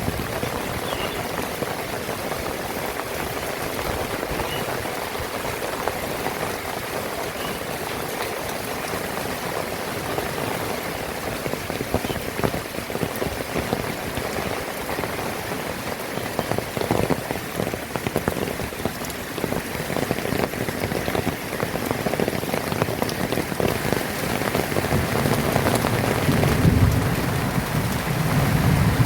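Heavy rain falling steadily, a dense hiss of drops pattering on surfaces. A low rumble swells near the end.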